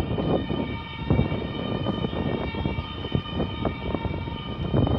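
Electric train running, giving a steady whine made of several pitches over low noise and irregular clicks from the wheels.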